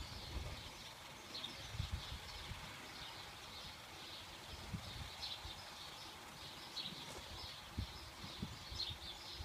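Small birds chirping repeatedly over outdoor background noise, with a few soft low thumps now and then.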